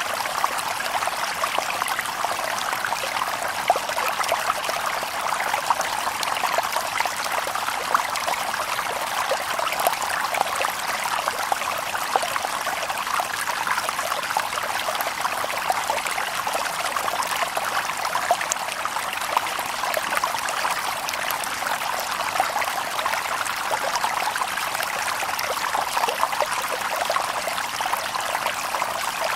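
Shallow stream babbling and trickling over stones, a steady burble of small splashes with no birds.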